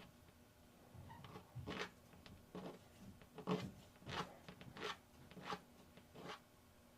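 A small white-metal casting part being rubbed back and forth on a fine file laid flat, to grind off casting flash. It makes faint short rasping strokes, about seven of them, roughly one every 0.7 seconds.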